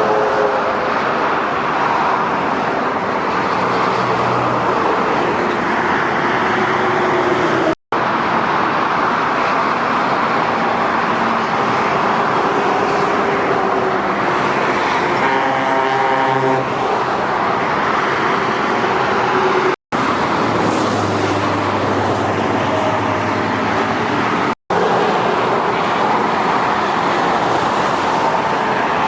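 Heavy trucks driving past on a motorway: steady engine and tyre noise of dense traffic, with brief breaks between cuts.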